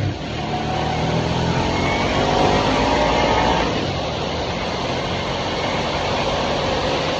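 2023 Harley-Davidson Nightster's liquid-cooled Revolution Max 975 V-twin running on the move. Its note climbs for about three seconds as it accelerates, then holds steady under a constant rush of wind and road noise.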